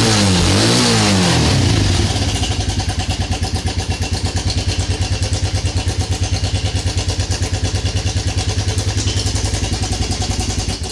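Suzuki Quad Runner ATV engine just after a cold start, revved up and down twice on the throttle, then settling into a steady idle with a rapid, even beat. It cuts out abruptly at the very end.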